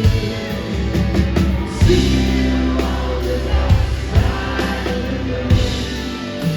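Live rock band playing with drums, bass, guitar and keyboards, and some singing.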